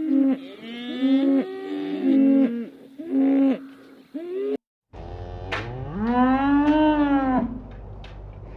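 Cows mooing: a run of short moos, then, after a brief break, one long moo that rises and falls in pitch.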